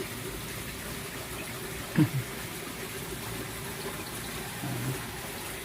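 Steady rush of running water. About two seconds in there is one short, loud call that falls in pitch, and a brief low voice sound comes near the end.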